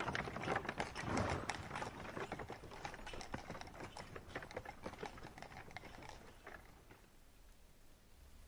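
Horse hooves clip-clopping on a hard road, growing fainter and dying out about seven seconds in.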